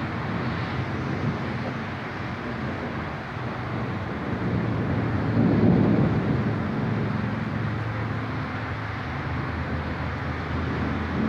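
Thunder rumbling, swelling about halfway through and slowly fading, over a steady outdoor background noise.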